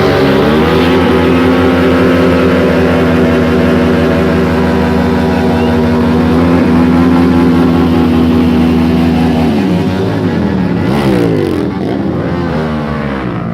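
Superbike engine held at high, steady revs for about nine seconds during a burnout. The revs then drop and rise and fall twice near the end.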